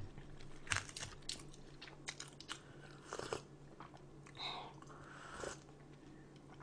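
Close-miked chewing and crunching of food: an irregular string of short, crisp crunches with a few longer, softer chewing noises.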